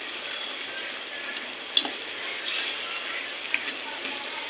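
Food sizzling in hot oil in a pan, a steady frying hiss with a few sharp clicks of a utensil against the pan, the loudest about two seconds in.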